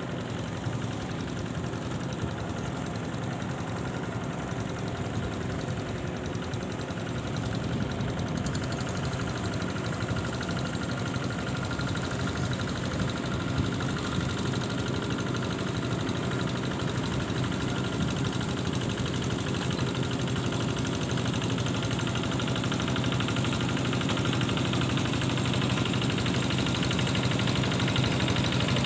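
An engine running steadily at an even speed and growing slowly louder.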